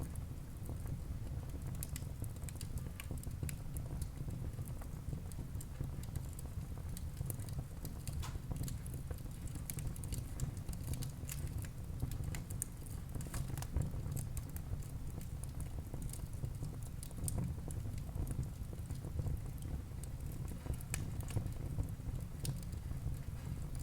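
Wood fire burning in a fireplace: irregular crackles and pops from the burning logs over a steady low rumble.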